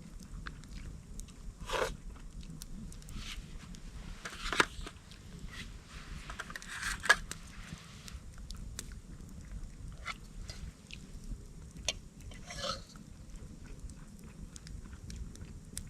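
A person eating: chewing and biting, with scattered small clicks and a few short crunchy sounds.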